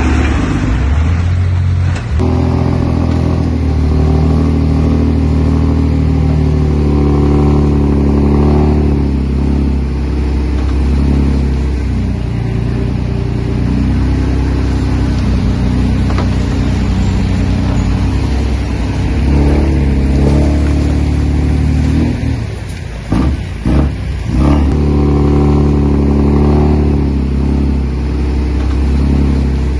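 Heavy diesel engine running and revving, its pitch rising and falling repeatedly. The sound changes abruptly about two seconds in and dips briefly a few times past the twenty-second mark.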